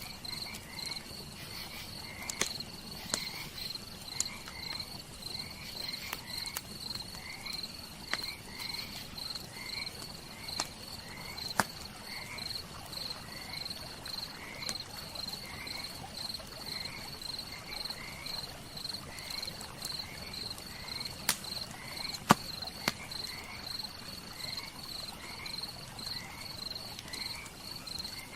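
Campfire crackling with scattered sharp pops, one louder pop about 22 seconds in. Behind it crickets chirp in a steady, fast, high pulsing trill, with a short rising call repeating a little more often than once a second.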